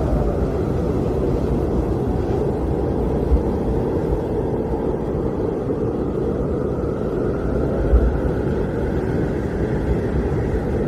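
Blizzard wind blowing steadily, a dense low rush with a couple of brief deeper buffets.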